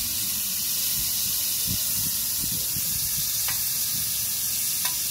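Tomatoes, onions, peppers and garlic sizzling in olive oil in a pan over a campfire, a steady high hiss with a few faint clicks.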